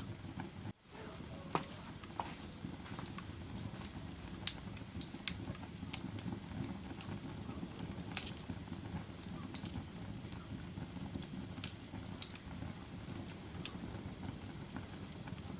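Fire burning with a steady low rumble, punctuated by irregular sharp crackles and pops. The sound drops out suddenly for a moment under a second in.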